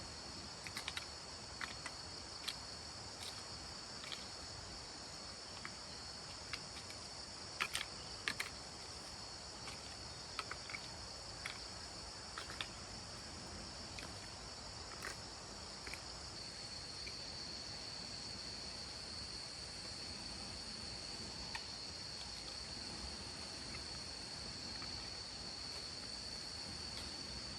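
A steady high-pitched chorus of insects, growing a little stronger about halfway through. Scattered sharp clicks and knocks sound over it during the first half.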